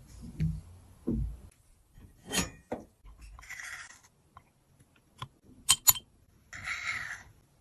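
Handling of makeup compacts and tools: a few dull knocks, then a short scraping or brushing noise, a cluster of sharp clicks and clinks, and another short scrape near the end.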